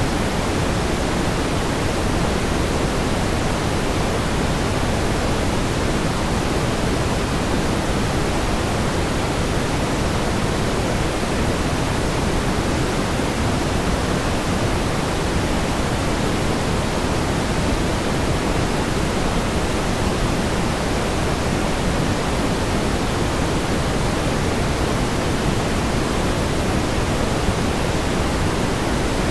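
Steady pink noise: an even, unchanging hiss, weighted toward the low end, with no events or variation.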